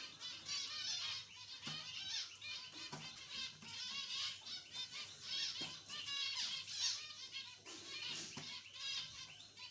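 A group of zebra finches chirping: many short, high calls overlapping without a break.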